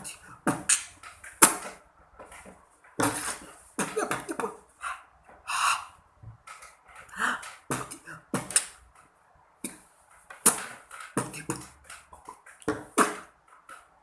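A person beatboxing: a string of short, sharp mouth-percussion sounds in an irregular rhythm with brief pauses between them.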